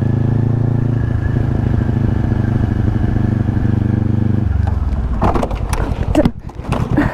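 Kawasaki Z400 parallel-twin motorcycle engine running at a steady pitch, which drops about four and a half seconds in as the throttle closes. A few sharp knocks and clatter follow near the end, as the bike runs into the car ahead.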